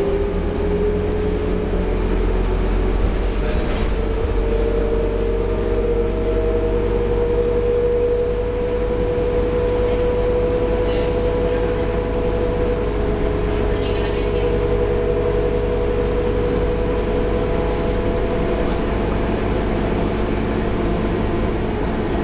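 Scania K230UB bus with a Scania DC9 engine and ZF Ecomat gearbox running under way: a steady engine drone with a high whine that rises slightly over the first several seconds, then holds steady.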